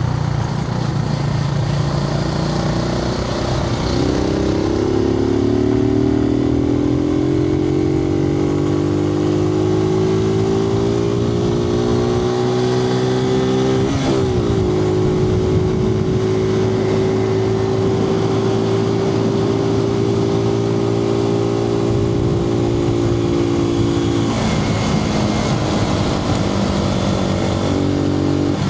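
Suzuki TU250X's single-cylinder engine pulling under way, heard from inside the rider's helmet. Its pitch climbs steadily from about four seconds in, jumps briefly about halfway, then holds steady. It drops off near the end as the throttle eases, then picks up again.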